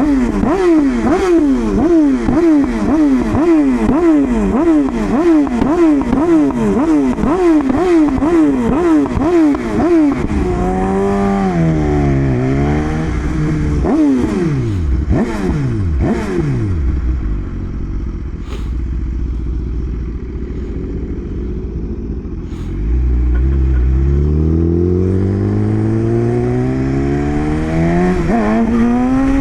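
A vehicle engine revved hard over and over in quick blips, about two a second, for some ten seconds. The revs then fall and climb again with a few sharp pops, and near the end an engine accelerates with a steadily rising pitch.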